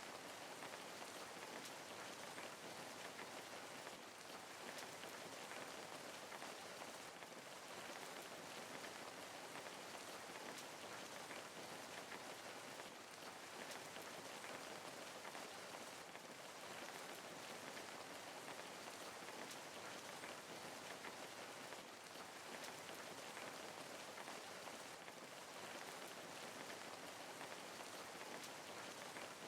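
Steady rain falling, an even, unbroken patter of drops on a surface.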